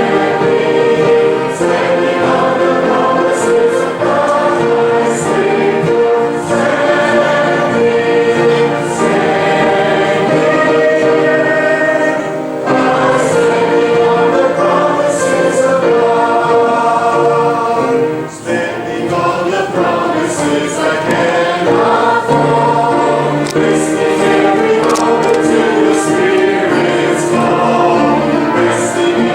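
A choir singing a worship song, the voices holding long notes, with short breaks between phrases about twelve and eighteen seconds in.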